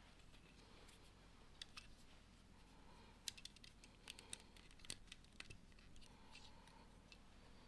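Faint, scattered clicks of plastic Lego pieces being handled and pressed together during building, over low room noise.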